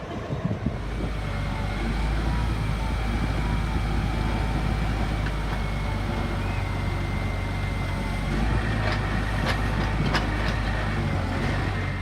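A large vehicle engine running steadily with a low, even hum, with a few light clicks near the end.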